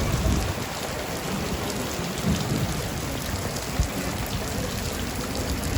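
Rain falling steadily, with many fine drop ticks over an even hiss.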